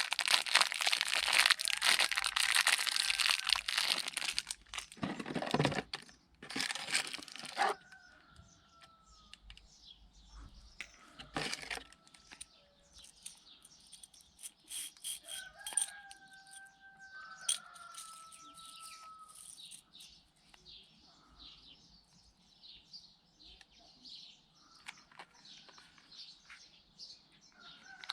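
Loud rustling, scraping noise for about the first five seconds, with a few more bursts shortly after. Then it goes quieter, and a bird calls in the background with a few gliding calls, the longest ones about halfway through, along with faint light ticks.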